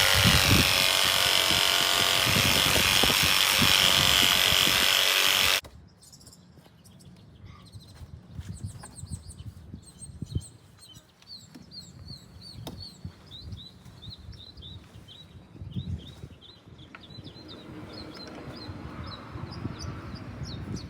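A power tool runs loudly and steadily for about five and a half seconds, cutting into the wall, then stops suddenly. After it stops, a bird chirps over and over in short, high, quick notes.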